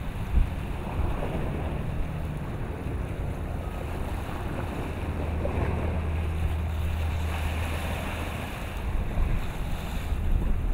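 Wind buffeting the microphone over the wash of choppy open water, as a low rumble with gusty thumps about half a second in and again near the end.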